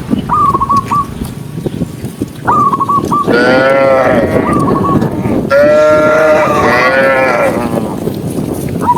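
Cattle mooing loudly: two long bawling calls, the first about three seconds in and a longer one from about five and a half seconds, each rising and falling in pitch. Short high warbling calls repeat in between.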